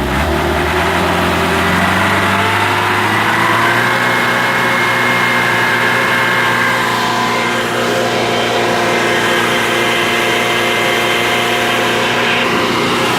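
Palm-oil truck's engine running steadily, its pitch rising a little over the first couple of seconds and then holding.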